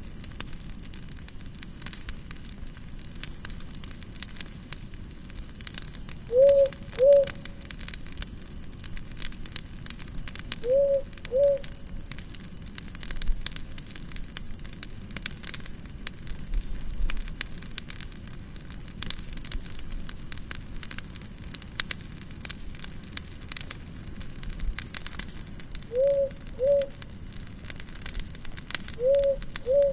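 Campfire crackling and popping steadily, with short runs of high insect chirps (cricket-like) a few times. A low two-note call sounds four times, each pair about half a second apart.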